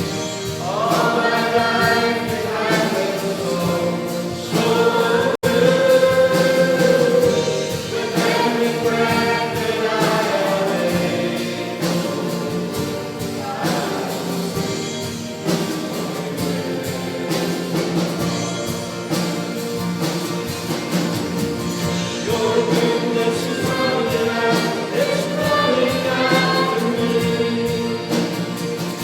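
Voices singing a gospel song to instrumental accompaniment.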